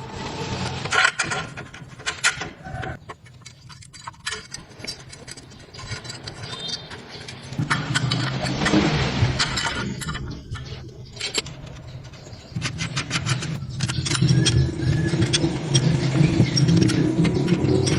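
Metallic clinking and scraping, then an engine running from about eight seconds in, getting louder from about thirteen seconds.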